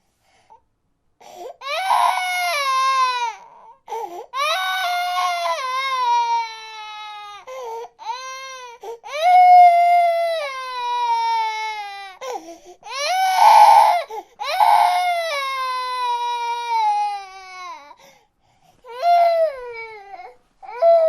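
Baby crying in a series of long wails, each sliding down in pitch, with short breaks for breath between them.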